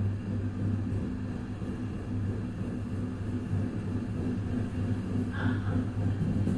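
Vagónka Studénka-built railcar running, heard from on board: a steady low engine hum with running rumble. A brief higher-pitched sound cuts in about five and a half seconds in.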